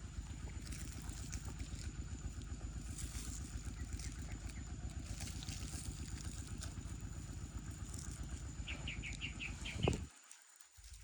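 A small engine running steadily at an even speed, cutting off suddenly near the end. A bird gives a quick run of about six chirps shortly before it stops.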